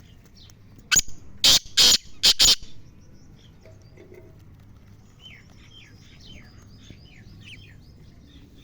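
A bird gives a loud, harsh call of about five quick notes, starting about a second in. Faint, short, high chirps from small birds follow after it.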